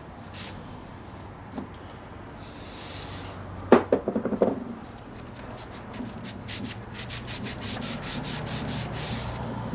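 Rust being rubbed off a mini lathe's metal parts by hand with an abrasive. There is a short scrape, then a brief loud clatter about four seconds in, then a run of quick back-and-forth strokes, about five a second, in the second half.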